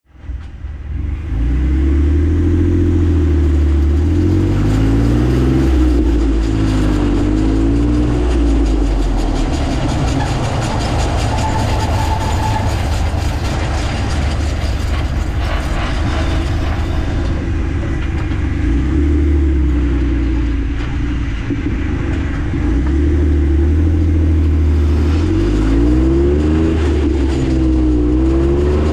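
Jeep Wrangler JK in motion, engine and driveline tones drifting up and down in pitch, with a fast, steady clicking from the rear driveshaft, strongest through the middle third.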